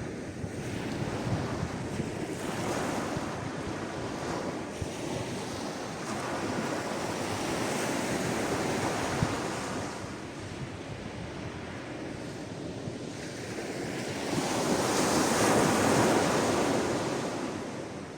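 Sea waves washing onto a shore, a steady rush of surf that swells and recedes, with the biggest wave breaking about fourteen seconds in.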